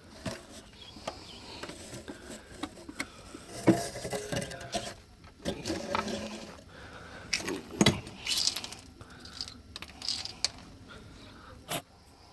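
Irregular clicks, knocks and clatter of hand work, with louder clusters about four, six and eight seconds in and a sharp knock near the end.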